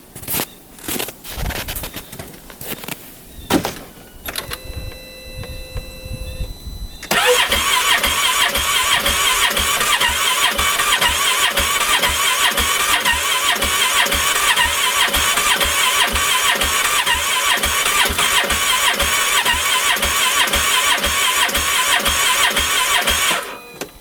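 2015 Polaris Ranger 570 engine cranking on its electric starter for about sixteen seconds in an even, rhythmic chug without catching, then stopping abruptly near the end: a failed start in the freezing cold. A few knocks come before the cranking begins.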